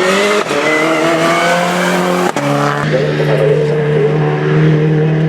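Renault Clio Cup race car engine at high revs, its note climbing for about two seconds, then dropping sharply, as at an upshift, and holding a steadier, lower pitch.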